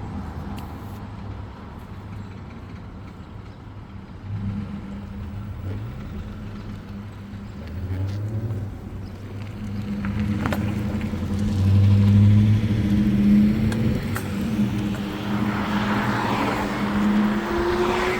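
A motor vehicle's engine running, getting louder and rising in pitch as it speeds up from about ten seconds in, with a whine climbing near the end and a couple of sharp clicks.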